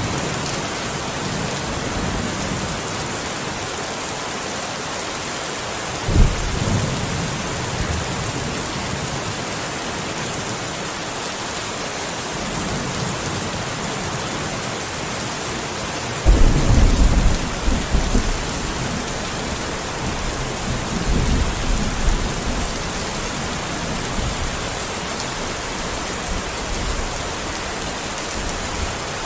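Steady rain falling in a thunderstorm, with thunder: a short crack about six seconds in, then a louder rolling rumble past the middle that lasts a few seconds and trails off into fainter rumbles.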